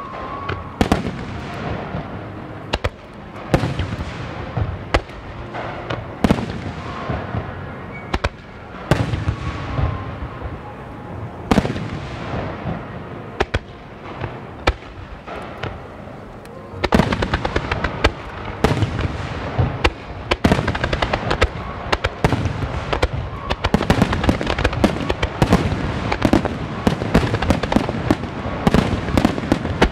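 Fireworks display: aerial shells bursting with sharp bangs and crackles, each report followed by a rumbling echo. From about halfway through, the reports come thick and fast as a wide starmine barrage fires.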